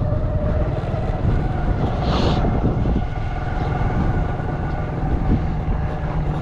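A small engine running steadily at an even speed, with a brief hiss about two seconds in.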